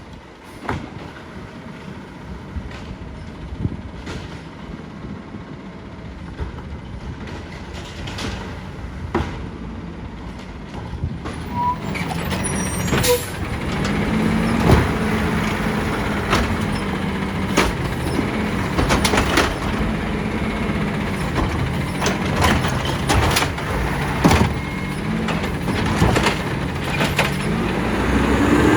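Side-loader garbage truck at work: its diesel engine grows louder about halfway through, then revs up and down repeatedly, with many sharp knocks and bangs throughout.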